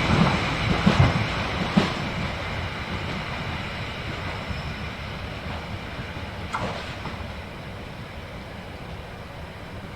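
Harz narrow-gauge train rolling past, its wheels knocking over rail joints a few times in the first two seconds, then the rumble fading steadily as it moves away, with a brief sharp screech near the end.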